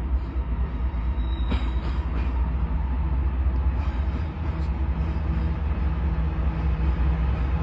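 Railroad locomotive running steadily: a deep, continuous low rumble with a steady engine hum, and a few brief clicks about a second and a half in.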